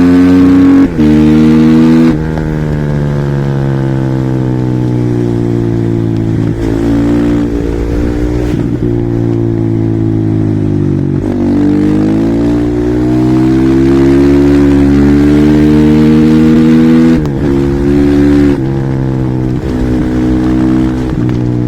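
Husqvarna SMR 450 supermoto's single-cylinder four-stroke engine at high revs with a quick gear-change dip about a second in, then off the throttle with the revs falling for several seconds. It then accelerates again, the pitch rising, with a few more quick gear-change dips near the end.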